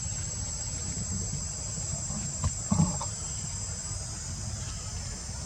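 Insects in a steady high-pitched chorus, with a low rumble underneath. A brief knock sounds a little under three seconds in.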